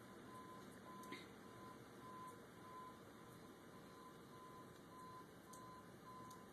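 A truck's reversing alarm beeping faintly and steadily, about two beeps a second, from a tow truck manoeuvring to recover another.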